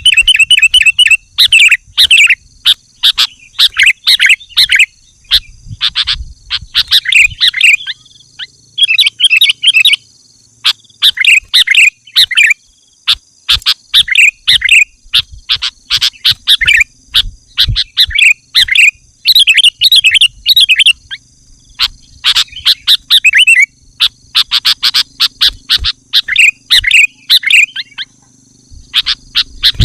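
Sooty-headed bulbul (kutilang) singing loudly and persistently: short bubbly chirping phrases repeated every second or two, over a steady high-pitched hum.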